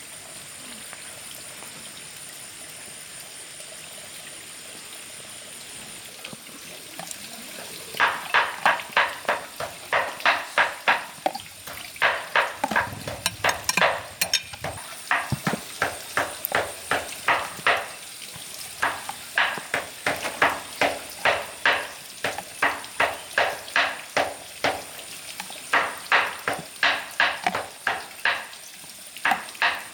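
Rhythmic chopping, about two to three sharp strikes a second, starting about eight seconds in and going on in runs with short pauses.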